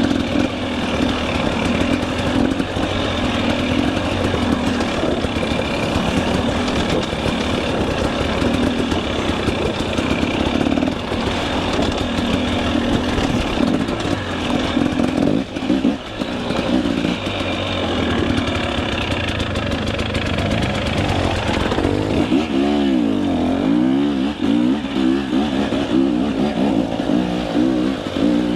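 KTM 300 EXC two-stroke enduro dirt bike engine running under throttle on the trail. The revs rise and fall constantly, with quick up-and-down wavers in pitch near the end.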